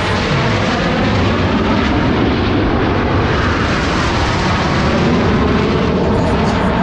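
Jet aircraft of the Frecce Tricolori display team flying past, a loud, steady jet roar that swells slightly about five seconds in.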